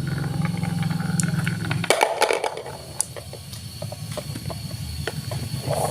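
Marbles rolling on a wooden marble run: a low rolling rumble for about two seconds, then a burst of clattering and scattered clicks as they knock against the track and each other.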